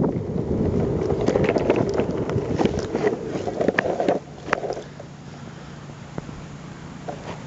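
Longboard wheels rolling on rough pavement, a dense rumble with rattling clicks, that stops about four seconds in and leaves a much quieter background.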